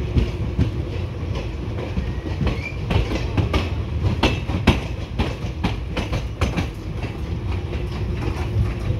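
Indian Railways passenger coach running along the track, heard at an open coach window: a steady low rumble with irregular clicking and clacking from the wheels on the rails.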